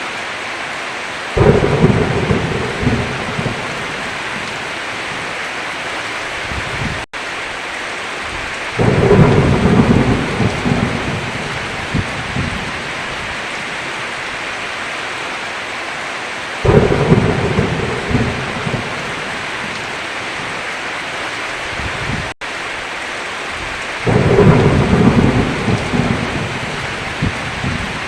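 Steady heavy rain with four rolls of thunder, each breaking in suddenly and fading over several seconds. The sound cuts out for an instant twice.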